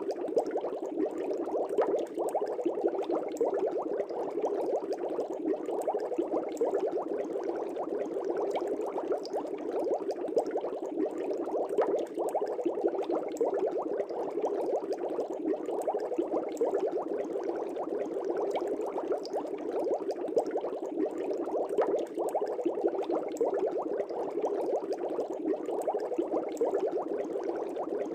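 Aquarium air bubbles streaming and breaking at the water surface, a steady dense bubbling with many small pops and no pauses.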